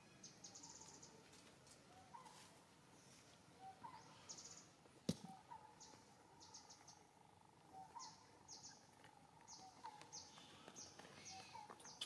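Faint birdsong: short high chirps repeating about once a second, with small lower notes between them and one sharp click about five seconds in.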